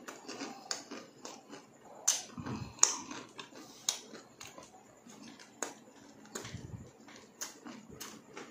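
Close-miked chewing of crispy fried pork innards and rice eaten by hand, with short sharp clicks and crunches at irregular intervals, the loudest about three seconds in.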